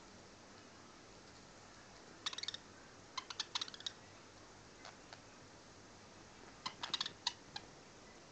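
Budgies' beaks nibbling and crunching vegetables: quick clusters of small sharp clicks, in three main bursts with a few single clicks between.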